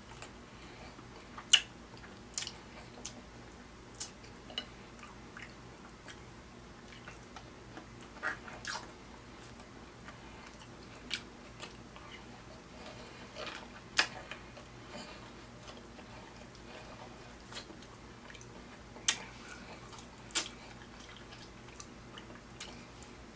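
Close-miked mouth sounds of eating ribeye steak with baked beans: chewing with sharp wet smacks and clicks, irregular and every second or few.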